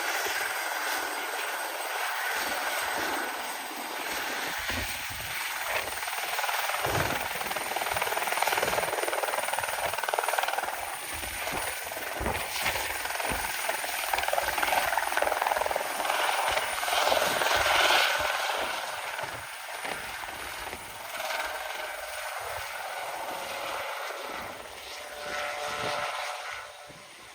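A light aircraft runs its engine through its take-off. The noisy roar swells and is loudest midway, then eases off in the last several seconds.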